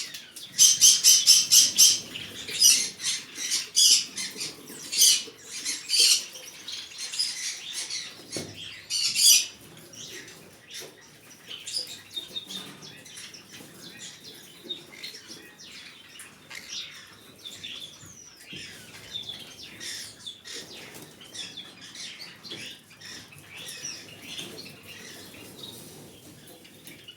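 Green-cheeked conure calling: loud, harsh squawks repeated rapidly over the first ten seconds or so, then softer chirps and chatter for the rest.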